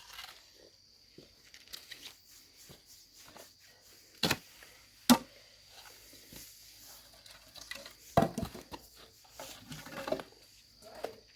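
Dry firewood sticks being laid onto a bonfire pile: a few scattered wooden knocks, the loudest about five seconds in and another about eight seconds in, with light rustling and clicking of twigs between.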